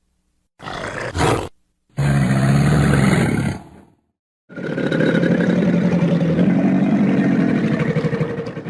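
Crocodile calling: three low, rough growls, a short one about half a second in, a longer one around two seconds in, and a long drawn-out one from about four and a half seconds on.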